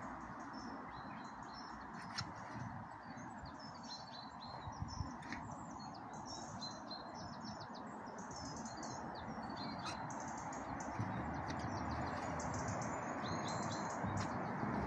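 Small birds chirping, many short high calls scattered throughout, over a steady background hiss.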